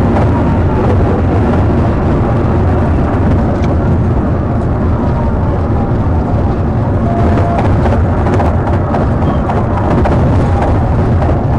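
Loud, steady rumble of a vehicle in a high-speed police pursuit, with faint rising and falling tones of a siren beneath it.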